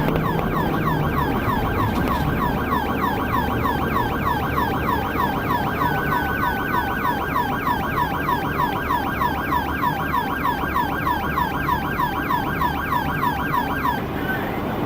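Police car siren in a fast yelp, a rapid run of falling sweeps repeating about five times a second, over road and engine noise. The siren stops near the end.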